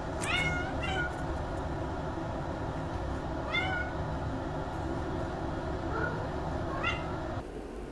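A cat meowing: about five short, high-pitched meows a second or two apart, over a steady low background hum.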